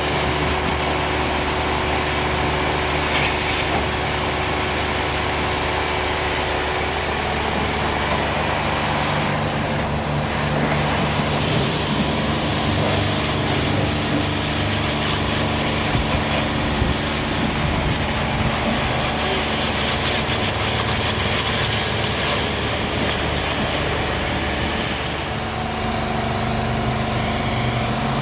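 Motor vehicle engine and road noise, running steadily with a constant low hum.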